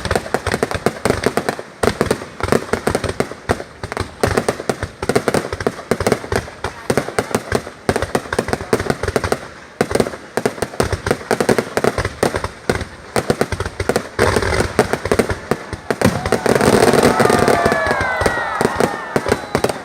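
Fireworks going off in a dense, rapid string of cracks and bangs. Near the end it grows louder, with several falling whistles over the crackle.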